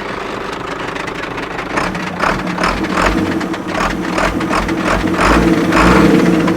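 An old Ford truck engine running, first steady, then from about two seconds in a rhythmic pulsing of two or three beats a second that grows louder toward the end.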